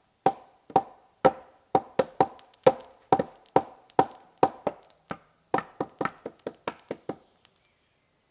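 A hand tool striking wood in a steady series of ringing knocks, about two a second, then quicker for the last couple of seconds before stopping.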